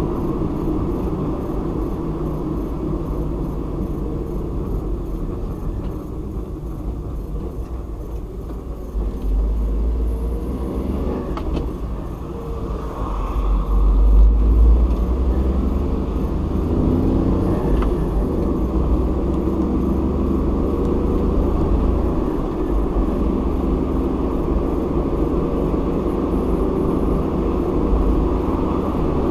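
Car driving on a highway, with a steady low rumble of engine and road noise that swells for a few seconds about halfway through.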